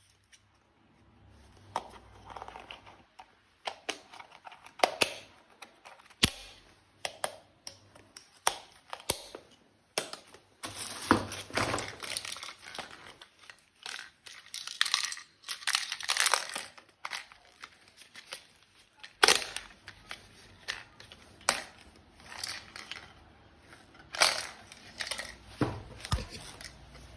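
Plastic packaging crinkling and tearing while a toy gun is unpacked, with scattered sharp clicks and knocks of plastic parts being handled.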